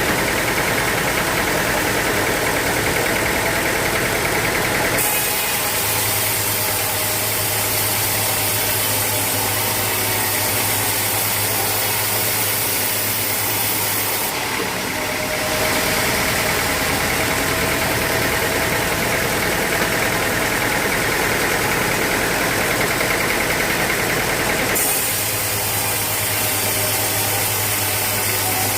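Sawmill machinery running steadily, its tone shifting abruptly about 5, 15 and 25 seconds in.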